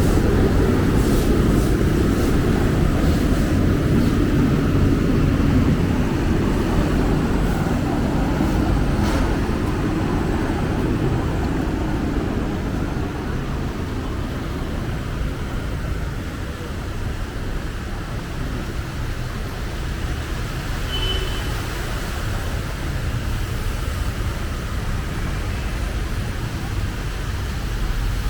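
City street traffic: a steady rumble of passing vehicles, louder for the first few seconds and then easing slightly.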